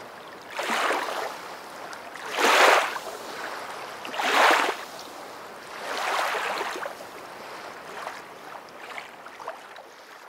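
Water washing in rhythmic surges, one about every two seconds, like small waves lapping on a shore, growing softer toward the end.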